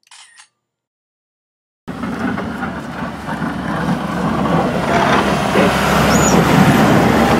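A short electronic beep, then from about two seconds in a motor vehicle's engine and road noise, loud and growing louder.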